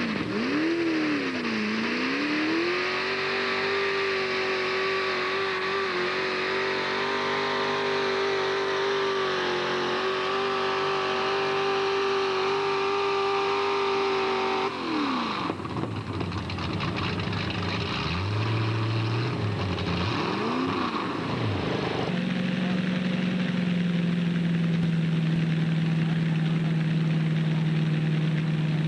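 Modified pulling tractor's engine running hard at a high, steady pitch for about fifteen seconds, with a brief dip near the start. It then drops off, revs up and down a couple of times, and settles at a steady lower speed.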